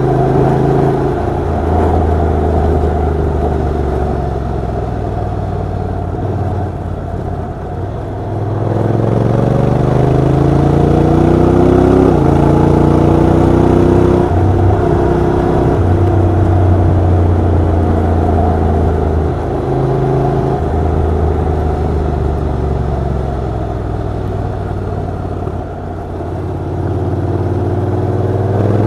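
Honda NC750X DCT motorcycle's parallel-twin engine and exhaust under way. The revs climb in steps with several gear changes, hold high for a while, then drop away as the bike slows, and climb again near the end.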